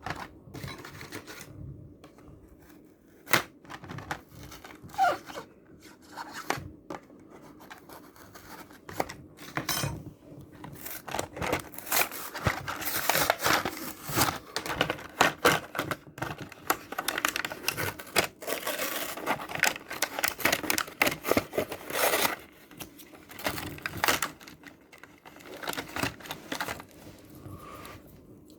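Cardboard-and-plastic blister packaging of a toy-car 3-pack being torn and pried open, with scattered sharp clicks at first, then a long stretch of dense crinkling and tearing from the middle on.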